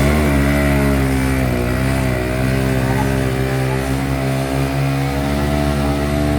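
Motorcycle engine running hard at high revs, its pitch held steady with small wavers.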